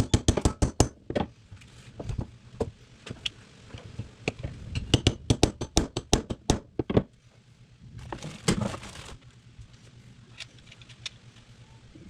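Quick runs of sharp metallic clicks and taps from hand tools working on small carburetor parts, with a short scraping rustle partway through.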